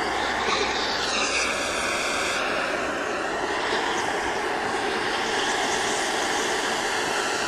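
Blowtorch flame running steadily with a continuous hiss, heating a seized brake caliper pin to free it.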